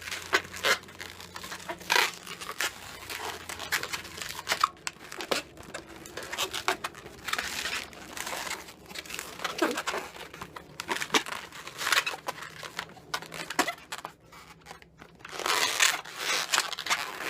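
Latex modelling balloons being twisted and wrapped around a pinch twist by hand, with irregular squeaks and rubbing rustles of the rubber.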